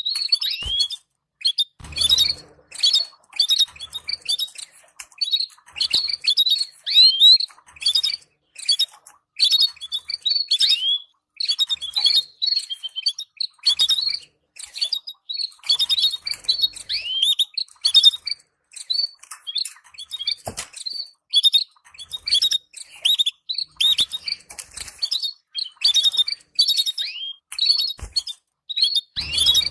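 Canaries chirping in dense clusters of short, rapid calls with quick downward-sweeping notes, broken by brief gaps. These are the stimulating chirps used to encourage canary pairs to breed. A few soft thumps come now and then.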